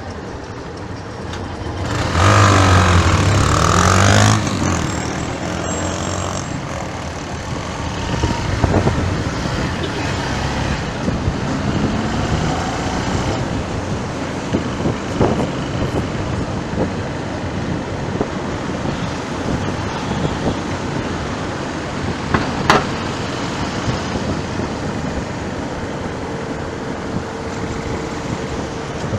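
Steady road traffic noise, with a heavy vehicle passing loudly about two seconds in.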